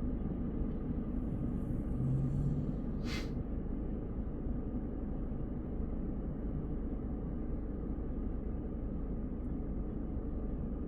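Steady low road and tyre rumble of a car driving at highway speed, with a short sharp click or tick about three seconds in.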